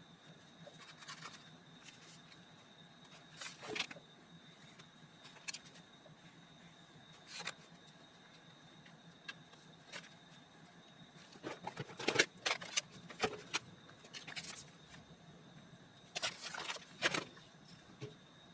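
Paper being handled while a junk journal is put together: scattered rustles and light taps, busiest in two clusters in the middle and near the end.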